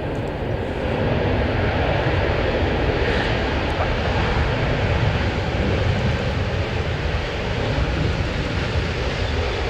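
Airbus A320 jet engines on landing, a steady loud rushing noise that swells about a second in and eases slightly near the end.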